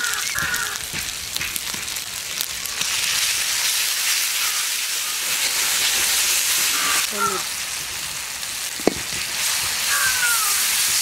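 Onions and spice pastes with freshly added red chilli paste sizzling steadily in hot oil in a metal wok, stirred and scraped with a metal spatula; one sharp knock about nine seconds in.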